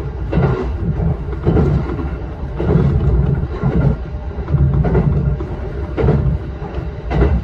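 Shinano Railway SR1 series electric train running at speed, heard inside the driver's cab: a steady low rumble with a regular knock about once a second.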